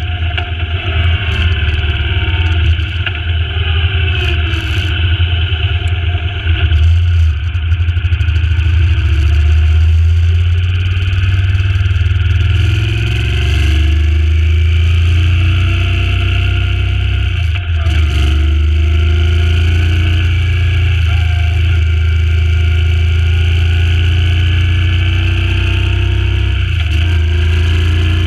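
Suzuki Intruder C800's V-twin engine under way, its pitch climbing and then dropping sharply at several gear changes. Wind rushes and buffets heavily over the microphone, most unevenly in the first few seconds.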